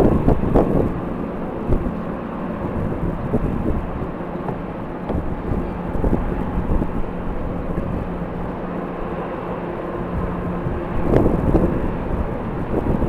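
Airliner engines running at a distance, a steady hum under a broad rushing noise, with gusts of strong wind buffeting the microphone at the start and again from about two seconds before the end.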